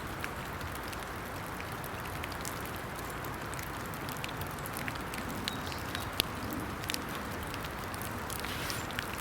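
Steady rain falling in woodland, with scattered sharp drips and one louder tap about six seconds in.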